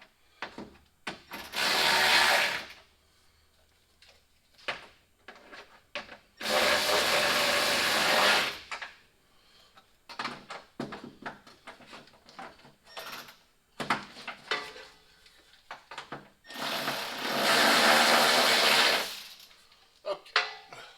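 Cordless electric ratchet running in three bursts, a short one then two of about two seconds, driving the nuts down on a headlight mount, with small clicks between the runs.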